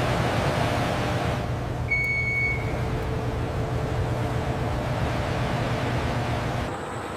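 Steady rumbling noise with a low hum underneath. A short, high beep sounds about two seconds in, and the rumble drops in level near the end.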